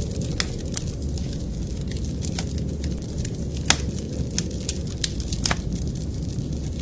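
Wood fire crackling in a fireplace: irregular sharp pops and snaps, one louder pop near the middle and another about two-thirds through, over a steady low rumble.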